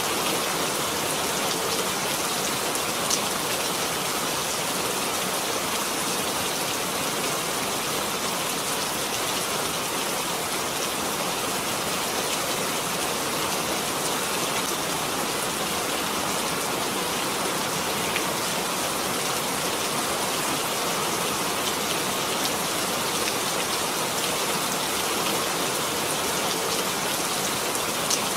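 Steady rain falling, an even hiss of drops with a few single drops ticking out now and then.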